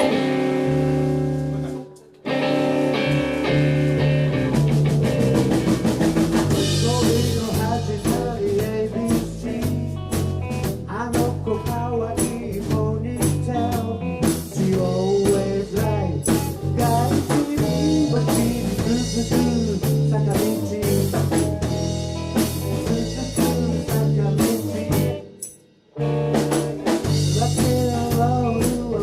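A rock band playing with drum kit and guitar, the drums keeping a steady beat. The band stops together for a moment about two seconds in and again near the end, then comes back in.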